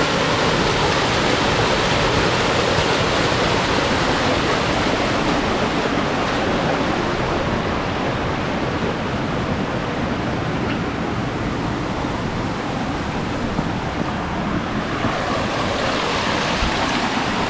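Little Missouri River's falls: water pouring over rock ledges in a steady, unbroken rush.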